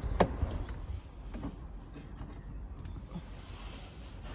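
A sharp click just after the start, then a few fainter clicks and taps from work on a car's rear door panel with a trim tool, over a steady low rumble.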